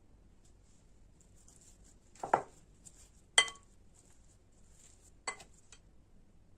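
Kitchenware clinking: three short knocks of a utensil or dish, the middle one the loudest and ringing briefly.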